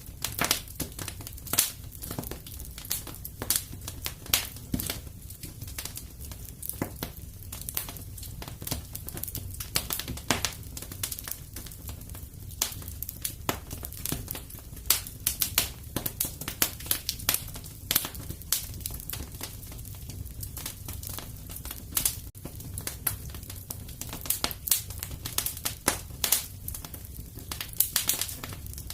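Wood fire crackling and popping: dense, irregular sharp snaps over a steady low rumble of the flames.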